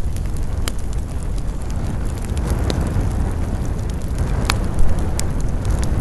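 Wood campfire burning, with a few sharp crackles and pops from the burning wood over a steady low rumble of wind; the loudest pop comes about four and a half seconds in.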